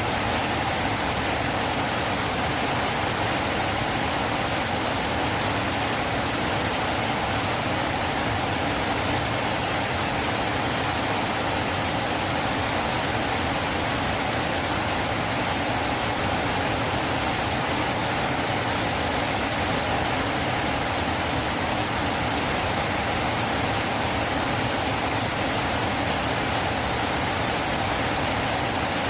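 River water rushing and flowing in a steady, unbroken wash of noise.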